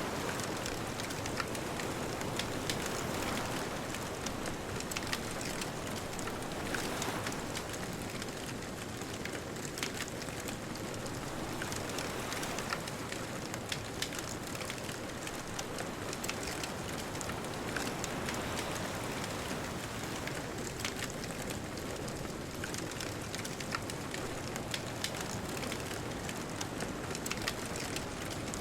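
Bonfire crackling with frequent small sharp pops over a steady wash of distant ocean surf.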